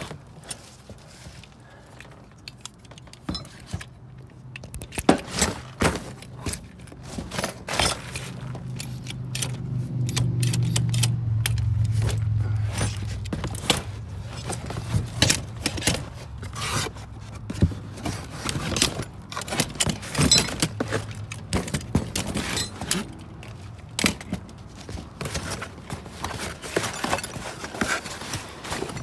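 Metal door-lock hardware clinking and clattering in many sharp knocks as boxes and parts are handled and shifted in a dumpster. A low rumble swells and fades in the middle.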